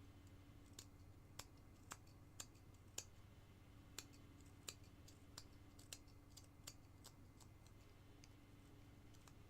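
Faint, sharp small clicks of a carving knife taking little cuts in basswood, irregular, about one or two a second, over a low steady hum.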